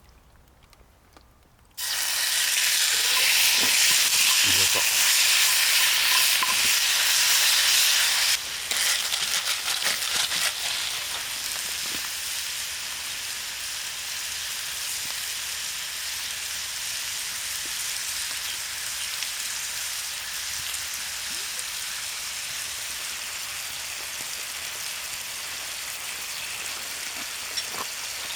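Food sizzling in a hot pan. It starts suddenly about two seconds in, as the food goes onto the hot surface, stays loud for several seconds, then settles into a steadier, quieter sizzle.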